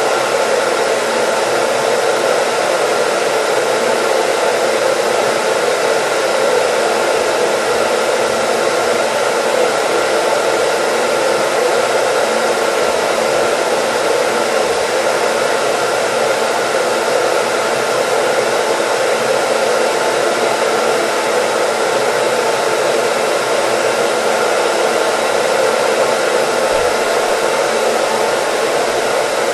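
Hair dryer running continuously: a loud, steady rush of blown air with a faint hum, never changing.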